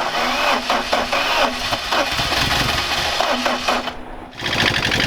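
Starter motor of a 2007 Lada Priora, bridged with a screwdriver, cranking its 16-valve engine with a rapid, even clatter. It eases off about four seconds in, then cranks again and stops sharply.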